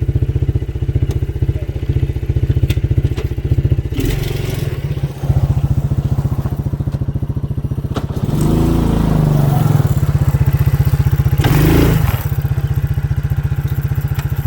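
A small motor vehicle's engine running with an even, pulsing beat, revving up about eight seconds in and again briefly near twelve seconds.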